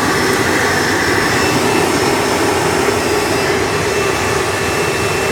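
A 1999 Hoover Breathe Easy upright vacuum's 7.3-amp direct-air motor running steadily, a whine over the rush of air, drawing suction through its on-board hose in tool mode.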